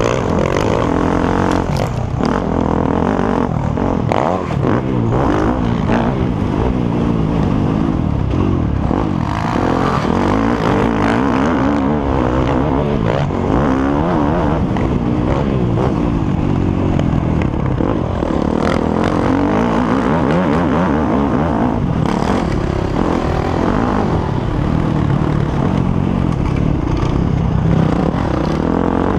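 Motocross bike engines revving hard, their pitch climbing and dropping again and again as riders accelerate and shift. Several engines overlap throughout.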